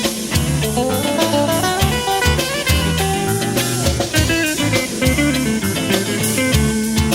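Instrumental band music: an electric guitar plays a melodic line over bass and a drum kit with a steady beat.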